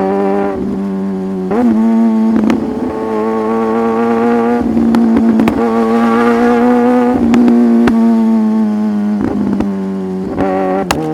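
Sport motorcycle engine running at steady revs under way, heard from the rider's position. The throttle is briefly shut and reopened several times, with short pops and small shifts in pitch between stretches of steady running.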